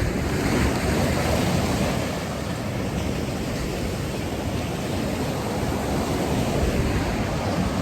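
Ocean surf washing onto the beach: a steady rushing of breaking waves that swells slightly about half a second in and again near the end.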